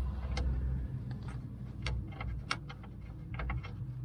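Scattered light metallic clicks and taps from a bolt and tools being worked through the front lower control arm's mount, at irregular intervals. A low rumble underneath is stronger in the first second.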